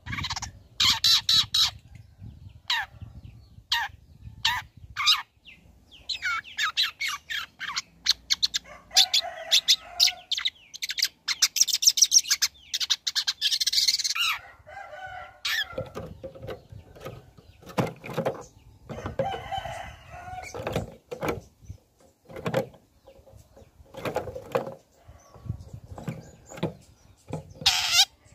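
Long-tailed shrike (cendet) singing a varied lure song: quick runs of sharp, high chirps and trills. From about halfway through come lower, fuller calls that sound like a chicken's clucks and crowing.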